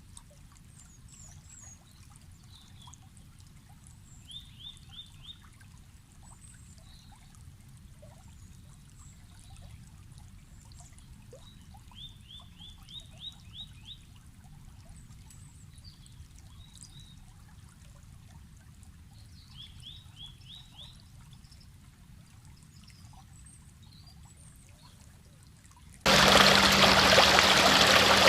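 A stream murmurs quietly with faint chirping, and three times a short run of rapid rising chirps sounds out. About two seconds before the end the sound cuts abruptly to loud, steady rushing water.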